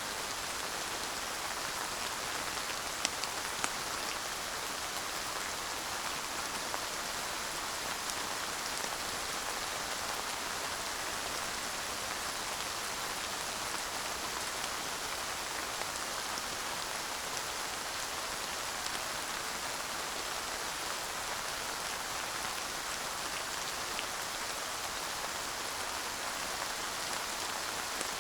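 Steady light rain falling, an even hiss of drops with a few sharper individual drop ticks, no thunder.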